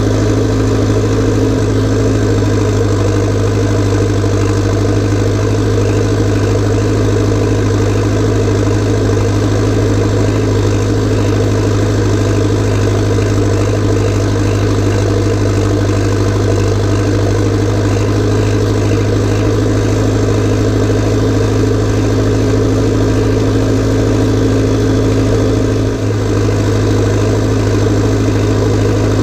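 Massey Ferguson 590T's turbocharged, straight-piped diesel engine running at steady revs, with a brief dip in level near the end.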